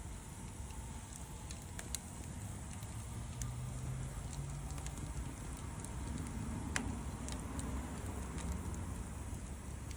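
Wood fire crackling, with irregular sharp pops from the burning wood, the loudest a little under two seconds in and just before seven seconds in, over a steady low rumble.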